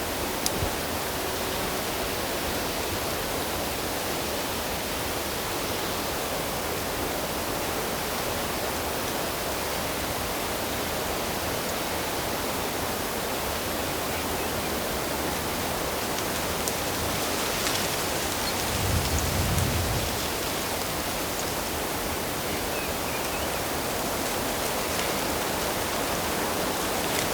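Steady rush of running water, with a brief low rumble about two-thirds of the way through.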